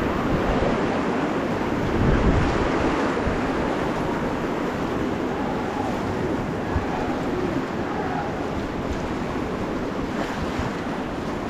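Rushing Ganges river water with wind buffeting the microphone: a steady rush of noise, with a louder gust about two seconds in.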